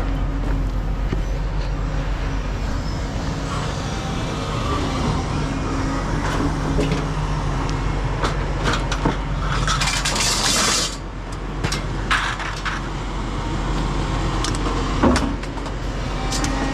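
A motor vehicle's engine running steadily, with a short hiss about ten seconds in and a few scattered knocks and clicks.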